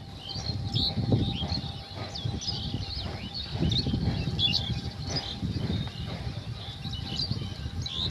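Small birds chirping and twittering, many short high calls in quick succession, over a low uneven rumble that swells and fades.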